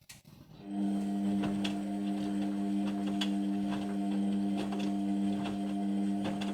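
Indesit washing machine starting its Cotton 60 programme: a steady hum sets in under a second in, with irregular clicks and knocks over it, and eases a little near the end.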